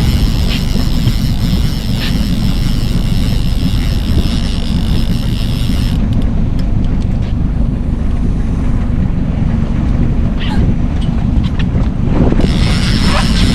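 Steady wind buffeting the microphone over a fishing boat's motor running while trolling.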